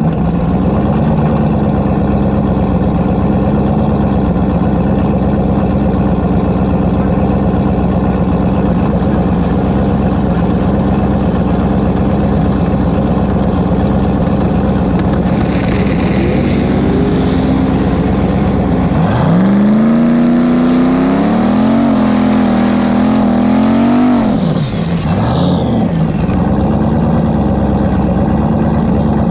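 A vehicle engine running steadily, revved up and held with a wavering pitch for about five seconds two-thirds of the way through, then dropping back, blipped once more briefly, and settling to its steady note.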